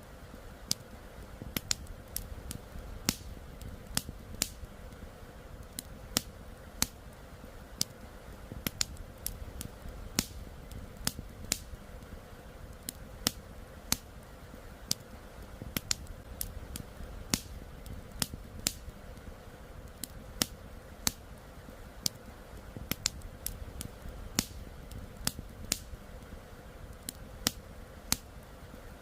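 Wood campfire crackling, with irregular sharp pops and snaps a couple of times a second over a soft, steady rush of flowing river water.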